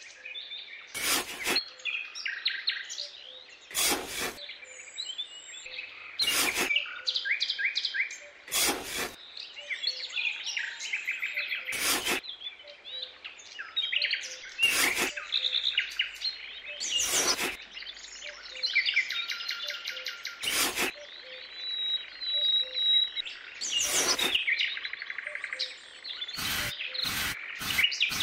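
Small birds chirping and twittering continuously, with a short scrape every two to three seconds from a small metal trowel digging into sand, the scrapes coming faster near the end.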